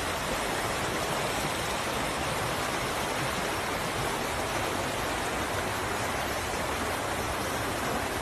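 Steady rushing noise of water, without breaks or changes.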